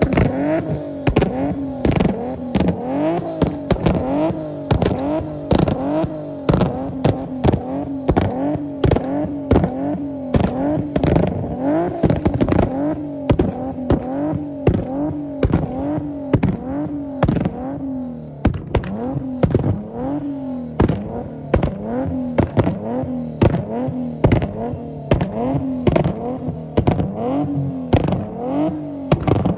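Nissan 370Z's 3.7-litre V6 revved again and again through a full ISR exhaust with long-tube headers, the pitch climbing and dropping about once a second, with sharp exhaust pops and cracks between the revs.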